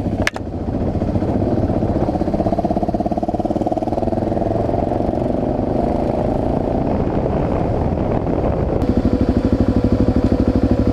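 Motorcycle engine running under way, with a single sharp click just after the start. About nine seconds in the engine note changes and settles into a regular throb.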